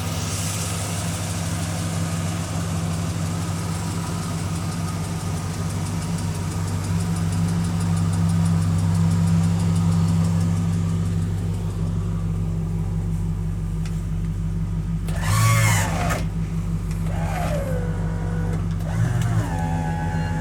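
A 1969 Chrysler 300's 440 V8 idling with a steady, deep note that swells a little midway. Near the end come a few short whining glides, one falling and then one rising.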